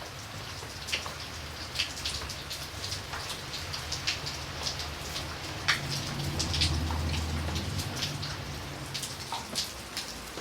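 Steady rain with individual drops striking a hard surface as sharp ticks. A low rumble swells and fades in the middle.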